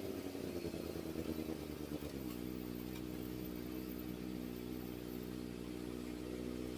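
Kawasaki ZX-4RR's inline-four engine through an SC Project exhaust, revs falling as the throttle is closed, then settling into a steady idle about two seconds in.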